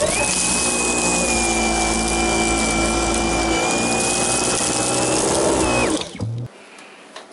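Dyson V11 Animal cordless stick vacuum running in auto mode on soft carpet: a steady high whine over the rush of the suction motor and brush bar, which winds down and stops about six seconds in.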